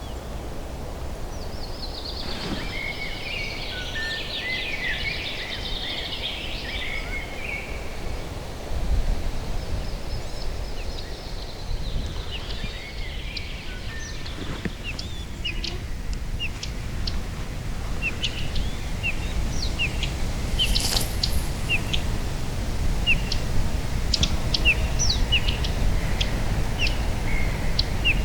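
Wild songbirds singing: a warbling phrase a couple of seconds in, then many short sharp chirps repeated through the second half. A steady low rumble runs underneath and grows louder toward the end.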